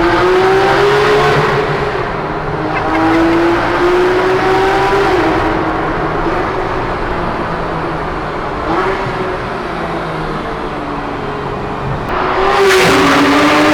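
Porsche GT3 RS's 4.0-litre flat-six engine accelerating hard, heard from inside the car: its pitch climbs in several pulls and drops back at each gear change, and it gets louder in a new pull near the end.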